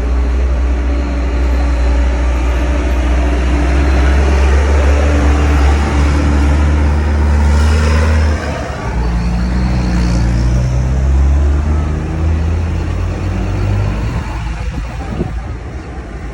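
Tractor diesel engines running as the tractors drive past close by, a deep steady drone with a changing engine note; it eases off about eight seconds in and fades near the end.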